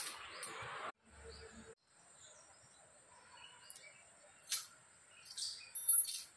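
Birds chirping in short, scattered high calls, loudest in the second half. A soft hiss in the first second cuts off abruptly.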